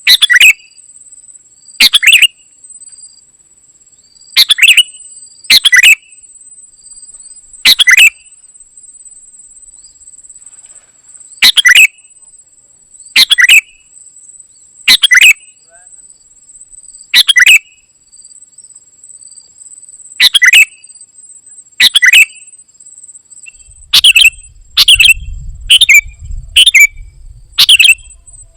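Kutilang emas, a bulbul, giving short, loud calls one every one to two seconds, coming faster, about one a second, near the end.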